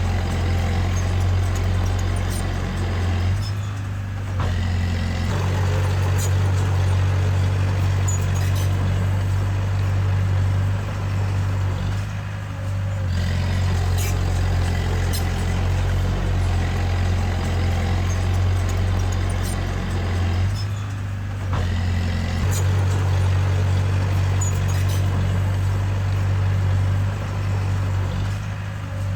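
Komatsu D20A bulldozer's diesel engine running steadily under load, easing off briefly about every eight seconds, with faint clicks over the steady drone.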